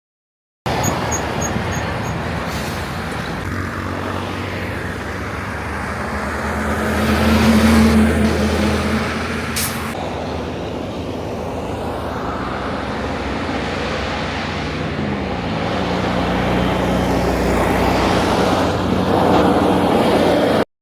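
Heavy truck engine running in road traffic, growing louder around the middle and then easing off, with a short sharp hiss about ten seconds in. The engine pitch dips and recovers about fifteen seconds in. Four faint high beeps sound about a second in.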